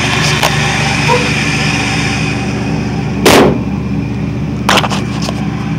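1994 Chevrolet Camaro's 3.4-litre V6 exhaust running steadily while cruising, with one loud sharp bang about three seconds in and a couple of quicker knocks near five seconds.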